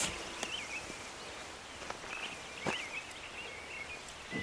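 Outdoor ambience with faint, short chirping calls repeating throughout, and two sharp knocks, one a little past halfway and one near the end.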